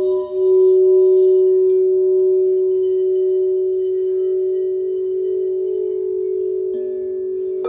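Several crystal singing bowls ringing together in steady, overlapping sustained tones, one low bowl's note changing slightly lower near the end.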